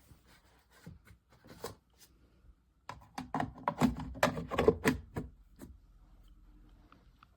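Light clicks, then a busy clatter of louder knocks and taps in the middle that tails off, like hard objects being handled.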